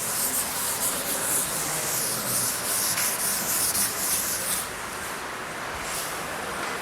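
Uneven rubbing, scraping noise that stops about four and a half seconds in.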